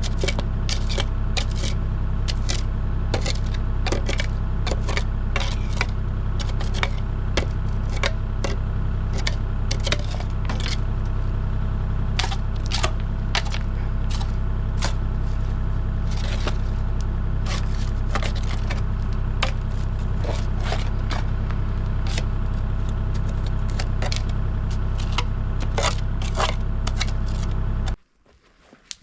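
Engine running steadily at an even speed, with many sharp, irregular clicks and knocks over it. The sound cuts off abruptly about a second before the end.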